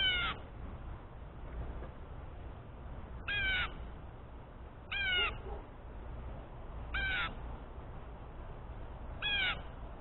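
A jay giving five harsh, short calls, each about a third of a second long, at intervals of roughly one and a half to two seconds. The bird is thought to be agitated by a rubber band around a peanut.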